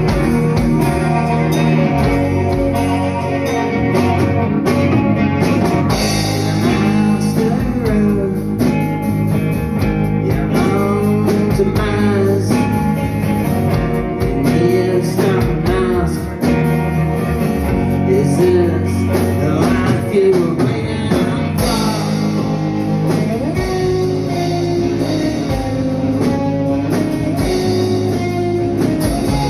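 A band playing a blues-rock song, with guitar and a singing voice.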